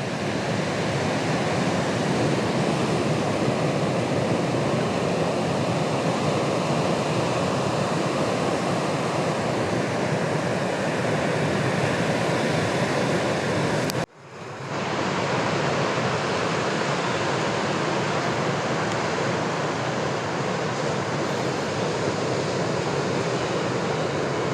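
Steady noise of ocean surf breaking in a typhoon swell. It cuts off sharply about fourteen seconds in and fades straight back in.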